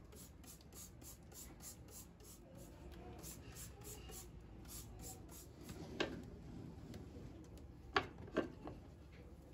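Rhythmic rubbing or scrubbing strokes, about three a second, that stop after about five seconds, followed by a sharp knock and then two quick clicks close together near the end.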